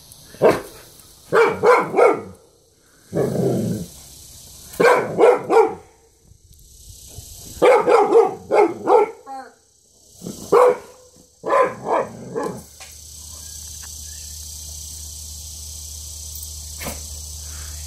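A dog barking in quick runs of two or three barks, worked up by a turtle, stopping about thirteen seconds in. After that there is a steady low hum.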